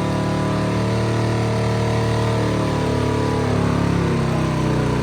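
Drag-race car engine running loudly and steadily at low revs, its pitch dipping slightly near the end.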